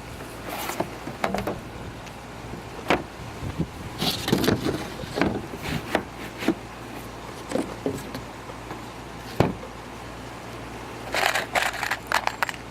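Irregular knocks, clicks and rustling, with clusters of them about four seconds in and again near the end, over a low steady hum.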